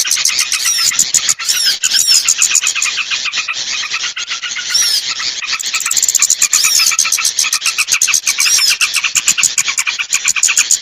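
Bird-lure recording of small songbirds: many rapid, high chirps and twitters overlapping in a continuous dense chatter, with short whistled downward glides every second or so.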